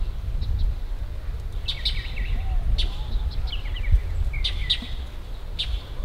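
Bird chirping: short, sharp calls in small clusters, about two seconds in, around three seconds and again near five seconds, over a steady low rumble.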